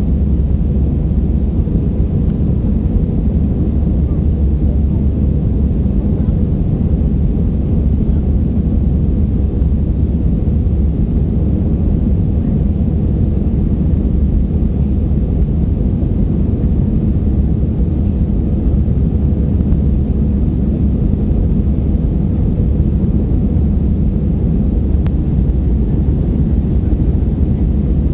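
Airbus A320 jet engines running at takeoff thrust, a steady low rumble.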